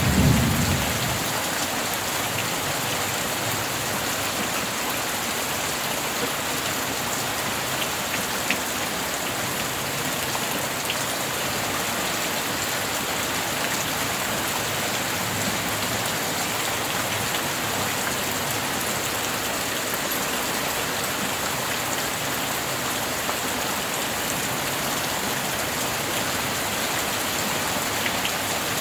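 Steady heavy rain falling on a surface, an even hiss of drops. A low thunder rumble fades out in the first second.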